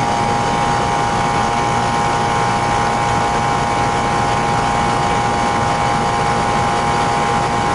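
Central air-conditioning condensing unit running steadily, its compressor and condenser fan giving an even hum with a constant whine.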